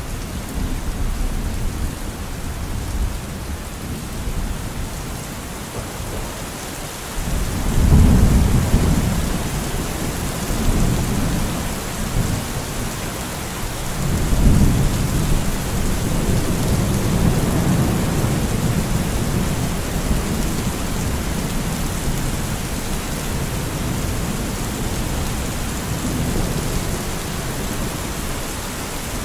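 Steady rain falling during a thunderstorm, with rolling thunder that swells about seven seconds in and again about halfway through, each rumble trailing off slowly.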